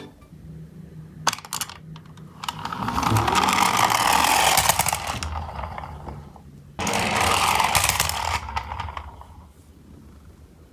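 Toy garbage trucks rolling on a slope, their small wheels rattling and rumbling. Two runs: one swells up and fades over a few seconds, and a second starts suddenly about seven seconds in and dies away. A couple of light clicks come first.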